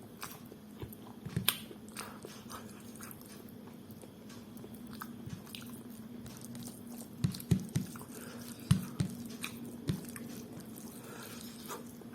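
Close-miked chewing of a big mouthful of pulao and curry: wet mouth and lip smacks with a few sharper clicks, one about a second and a half in and a cluster about seven to ten seconds in.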